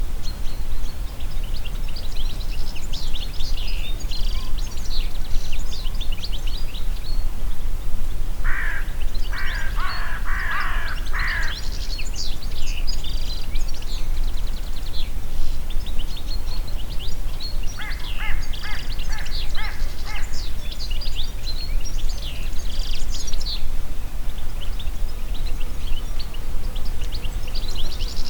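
Wind blowing steadily through a forest under a chorus of small birds chirping and singing high. A louder, lower bird call comes in three bursts about nine to eleven seconds in, and a quick run of repeated notes about eighteen to twenty seconds in.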